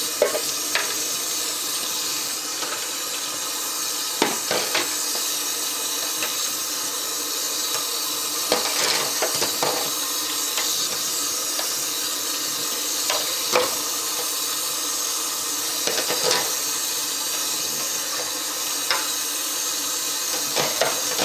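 Kitchen tap running steadily into a sink as fridge shelf parts are rinsed under it, with occasional light knocks of the parts against the sink.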